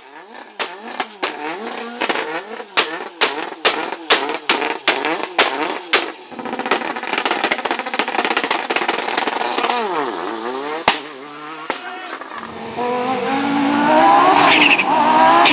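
Rally car engine being blipped hard, its pitch dipping and rising with a sharp crack about twice a second, then running on with one deep drop and rise in pitch. Near the end a louder car engine accelerates with its pitch climbing.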